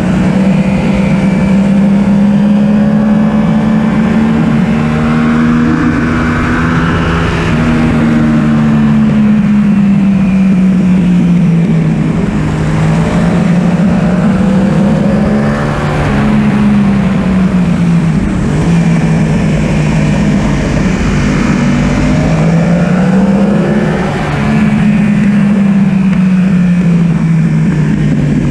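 Yamaha R1's inline-four engine revving hard and pulling through the gears at track speed, its pitch climbing and falling again and again as it accelerates and shifts or rolls off for corners.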